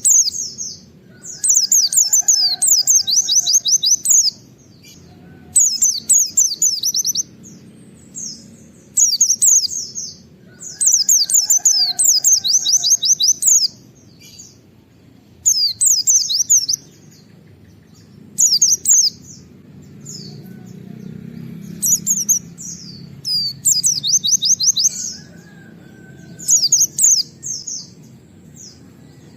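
Pleci (white-eye) singing in its rapid 'nembak' style. It gives about ten bursts of fast, high, down-sweeping notes, each a second or two long, with short pauses between. A steady low background noise runs underneath.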